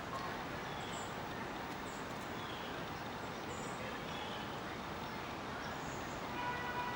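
Small birds giving short, high call notes every second or so over a steady hum of city traffic. Near the end comes a brief louder call with a pitched, several-toned sound.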